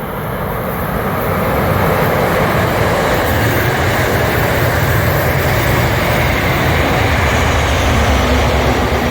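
A train passing close by at speed: a loud, steady rushing rumble of wheels on rail that builds in the first couple of seconds and holds.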